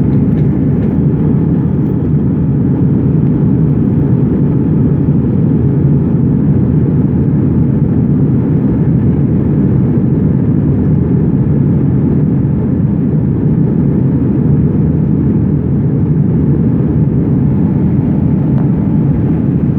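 Steady, loud cabin noise of an airliner in flight: a constant deep rush of engines and airflow heard from inside the cabin.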